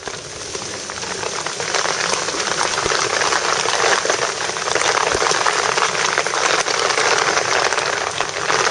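Heavy rain pouring down, a dense hiss of many drops hitting close by. It rises over the first couple of seconds, then holds steady.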